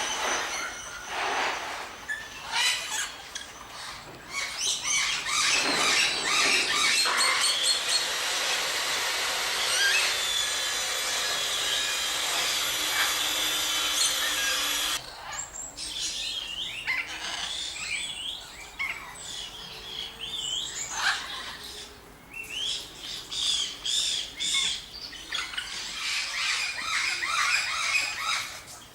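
Many small birds chirping and calling together in quick, high chirps. The sound swells into a dense chorus that cuts off abruptly about halfway through, then scattered chirping goes on.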